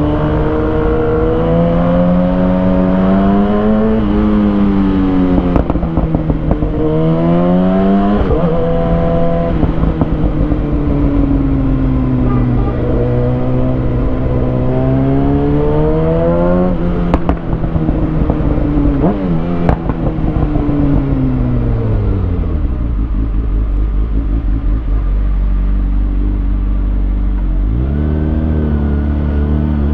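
2020 Kawasaki Ninja ZX-6R inline-four through a Lextek SP7C carbon exhaust with decat headers, accelerating up through several quick gear changes, then slowing down with a couple of sharp cracks on the overrun. It idles steadily for several seconds and revs up again near the end.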